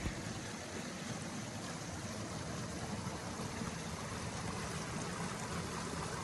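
Mountain stream rushing steadily, an even wash of running water.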